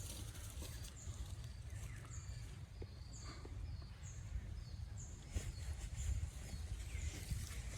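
Forest ambience: a bird gives short high chirps over and over, each slightly falling, about one every half second to a second, over a steady low rumble of wind or handling on the phone's microphone.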